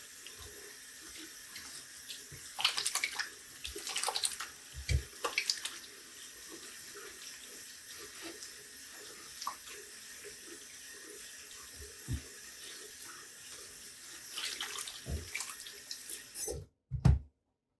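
A tap runs steadily into a sink, with a few louder spells of splashing. Near the end the water shuts off, followed by one sharp knock.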